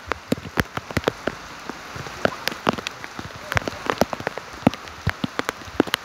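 Rain falling steadily, with heavy drops splattering irregularly, several a second, over a constant hiss.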